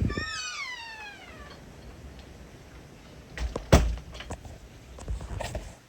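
A cat meows once, a drawn-out call falling in pitch, followed by a few sharp knocks, the loudest just under four seconds in.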